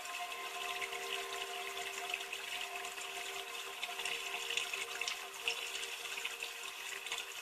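Aquarium water running steadily, an even trickling hiss with a faint steady hum underneath.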